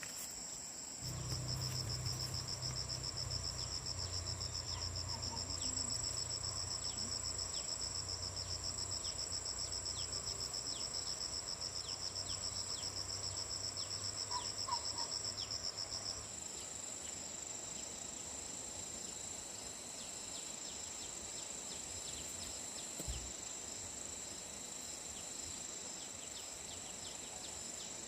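Insects chirring outdoors: a steady high-pitched drone throughout, joined about a second in by a second, rapidly pulsing call that stops a little past halfway. A low hum sounds along with the pulsing call and ends with it.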